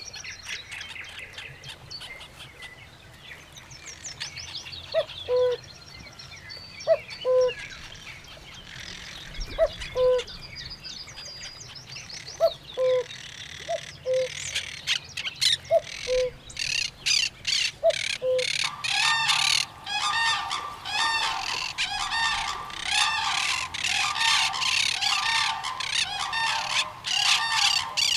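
Birds calling at a pond. Small birds chirp high and quick, and a low two-note call repeats about every two seconds through the first half. About two-thirds of the way in, a flock breaks into a loud, dense chorus of harsh squawking calls that carries on to the end.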